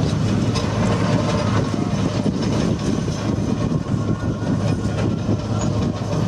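Engine of a Type 94 amphibious mine-laying vehicle running steadily, a loud continuous low drone with a constant hum.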